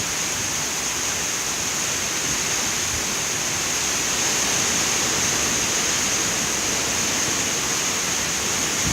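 Hurricane wind blowing in a steady, dense roar that holds at an even level throughout.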